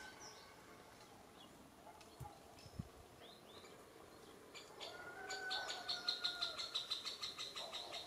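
Wild birds calling in woodland. A few scattered chirps come first, then a fast chattering run of high calls, about seven a second, from about five seconds in until near the end.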